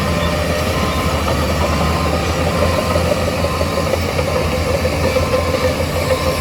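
Heavy diesel earthmoving machinery running steadily, a deep low rumble with a mid-pitched whine that grows slightly stronger toward the end.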